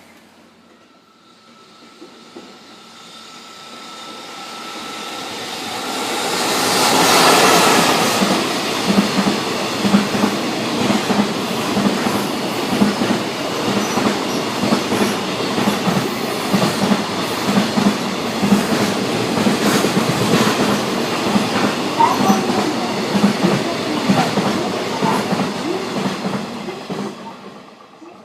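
A freight train hauled by an EF65 electric locomotive passing close by: the noise swells to its loudest about seven seconds in as the locomotive goes past, then a long string of freight wagons follows with a steady clickety-clack of wheels over the rail joints, dying away near the end.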